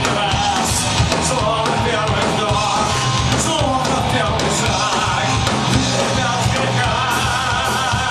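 Live punk rock band playing a song at full volume.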